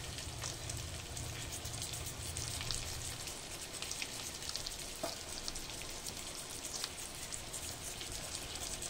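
Stuffed crabs frying in oil in an aluminium pot: a steady sizzle with many small pops and crackles of spattering oil.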